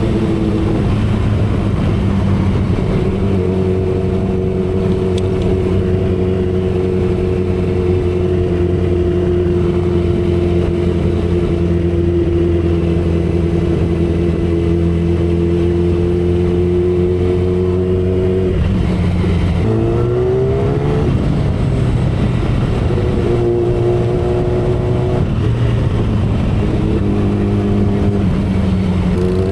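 2012 Kawasaki Ninja ZX-10R's 998 cc inline-four engine and exhaust pulling at a steady cruising pitch, with wind rush over it. About two-thirds of the way through the pitch dips briefly and then climbs as the engine revs up again, and a few smaller dips and rises follow near the end.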